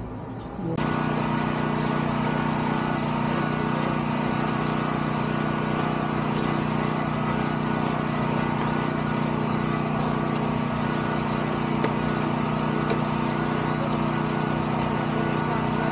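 Motorcycle engine idling steadily at an even pitch, coming in suddenly about a second in.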